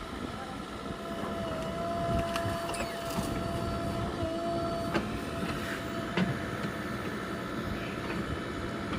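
JCB 3DX backhoe loader's diesel engine running steadily with a constant high whine over a low rumble, and two sharp knocks about five and six seconds in.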